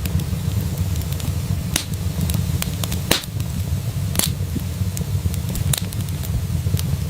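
Wood fire burning in a fireplace: a steady low rumble of the flames with irregular sharp crackles and pops, four of them standing out louder.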